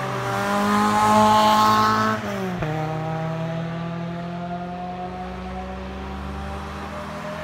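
A car's engine accelerating hard as it comes past, loudest about a second in; its pitch drops sharply about two seconds in, then climbs steadily again, fainter, as the car pulls away.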